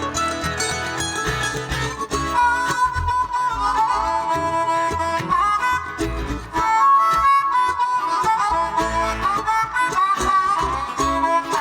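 Live bluegrass band playing an instrumental break: a lead line with bent and sliding notes over guitar and bass accompaniment.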